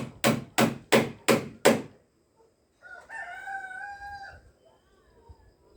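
Six quick hammer blows on wood, about three a second, followed about three seconds in by a rooster crowing once, one long steady call.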